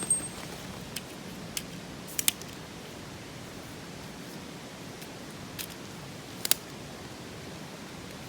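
Mountain stream rushing steadily, with a few sharp clicks and ticks over it: a close pair about two seconds in and a louder one about six and a half seconds in.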